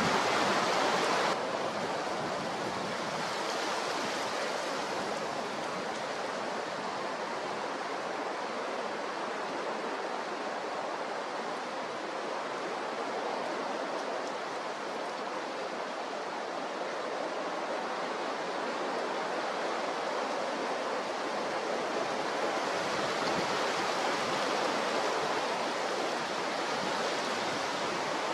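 Steady rushing noise of strong wind and rough sea, louder for about the first second and then dropping abruptly to a level roar.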